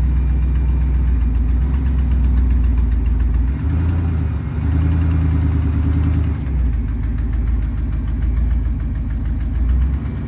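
6.0-litre V8 gasoline engine of a 2003 Chevrolet 3500 dually pickup idling steadily. Its note shifts for about three seconds in the middle, then settles back.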